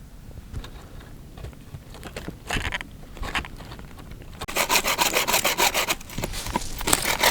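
Hand saw cutting through a branch of wet, rotten wood. A couple of short scrapes come first, then from about halfway in fast, even back-and-forth strokes, with a brief pause before the sawing picks up again.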